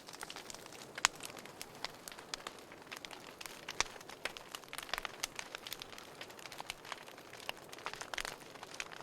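Wood fire burning in a fireplace, crackling with irregular sharp pops over a soft steady hiss; the loudest pop comes about a second in.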